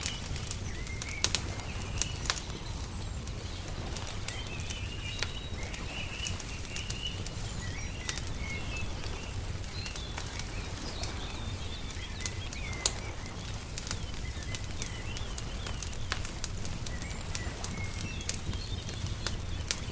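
Wood fire crackling with scattered sharp pops, over small birds chirping on and off and a steady low rumble underneath.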